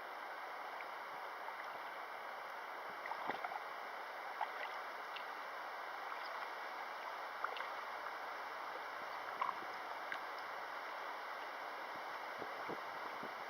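Steady rushing of river water, with a few faint short ticks scattered through.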